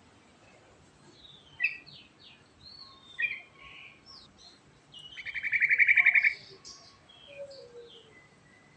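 Yellow-vented bulbul (trucukan) singing: short scattered chirping notes, then a loud, rapid trill of about a dozen pulses a second, lasting just over a second, about five seconds in. Softer notes follow.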